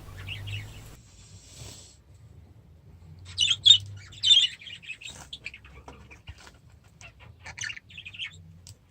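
Budgerigars chirping in short, scattered calls, loudest around three and a half to four and a half seconds in, over a faint low hum.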